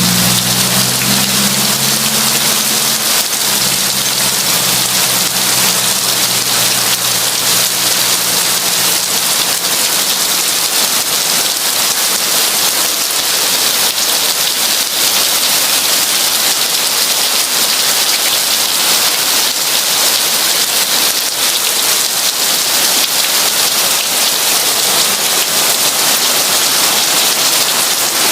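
Heavy rain falling steadily, a dense even hiss. A low hum is heard under it at the start and fades away within the first few seconds.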